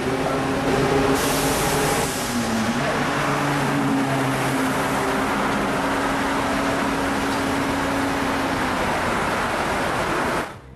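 Ferrari engines running as the cars pass in traffic: a steady engine note over road noise, with a brief dip in pitch a couple of seconds in. The sound cuts off suddenly near the end.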